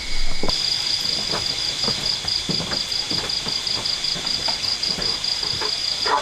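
Insects trilling steadily in a high, pulsing chorus of about seven pulses a second. The chorus comes in about half a second in, with scattered light clicks and taps beneath it.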